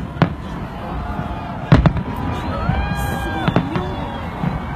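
Fireworks bursting overhead: a sharp bang early on, two close together about two seconds in and two more about a second later, over a steady crackle. Between the bangs a long, arching pitched call rises and falls, like a shout from the crowd.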